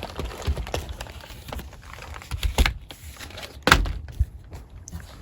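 A person clambering and shifting about in a cramped crawl space: scuffing and rustling with a few dull thumps, the loudest about two thirds of the way through.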